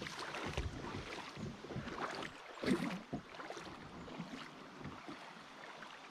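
Water splashing and rippling around a kayak in shallow moving water, with scattered short knocks of paddle or hull and a louder burst about two and a half seconds in.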